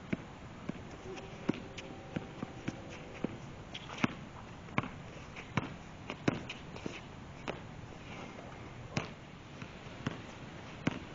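Basketball bouncing on a court: sharp, irregularly spaced bounces, several a few seconds apart, the loudest near the middle.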